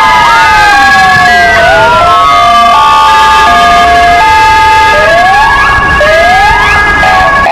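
Four police sirens, two PFA motorcycle sirens and two Kingvox ERP electronic sirens, sounding together at full loudness: wails sliding up and down overlap with a two-note hi-lo tone and a steady high note, and quick rising whoops come in about five and six seconds in.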